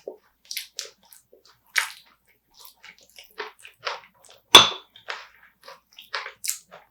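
Eating sounds of spicy marinated raw crab: a series of short crunches and clicks as the crab is bitten and chewed, with one loud sharp crack about four and a half seconds in.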